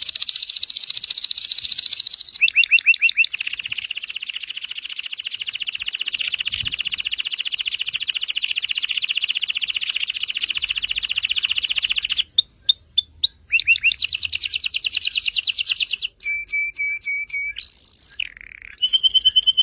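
Domestic canary singing: fast rolling trills of rapidly repeated high notes. A long even trill runs for about eight seconds, then the song switches through a string of shorter trilled phrases of different pitch, with a couple of brief pauses.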